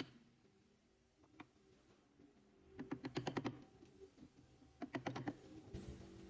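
Two quick runs of sharp clicks or taps, each lasting about half a second, about three and five seconds in, after a single click near the start.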